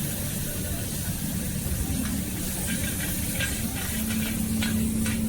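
Wok cooking at a hawker stall: a steady hiss and low rumble of sizzling over a gas burner, with light metallic clinks from about two seconds in and a brief steady hum near the end.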